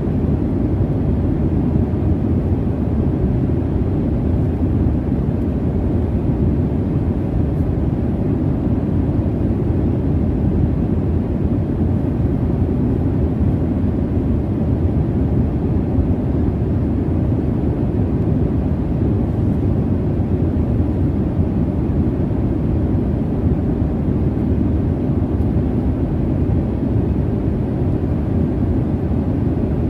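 Steady jet airliner cabin noise: a constant low, even rumble of engines and airflow with no changes or distinct events.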